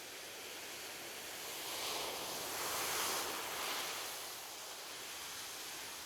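Ocean waves on a beach: a steady wash of surf, with one wave surging louder about two to four seconds in, then fading back.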